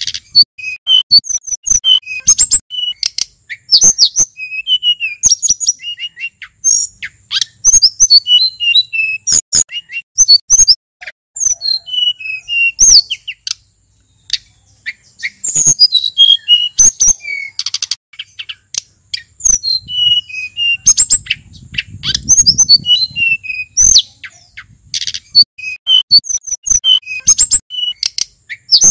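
Male sulingan gunung, a songbird, singing a fast, varied run of high chirps and whistles, with a brief pause about halfway through.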